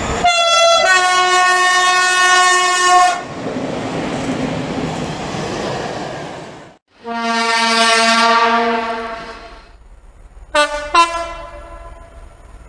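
Railway locomotive horns: a short blast, then a long two-tone blast of about two seconds, followed by a few seconds of rushing train noise. After a sudden cut, a different, lower horn is held for about two and a half seconds, and near the end there are two short toots.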